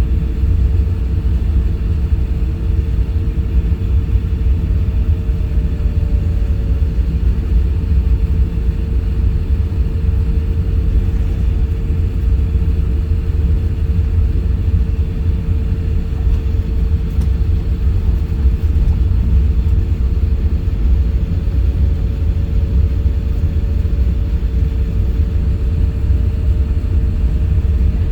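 Cabin noise of an Airbus A350-1000: a steady, deep rumble of its Rolls-Royce Trent XWB engines and airflow, with a constant hum over it, heard from inside the passenger cabin.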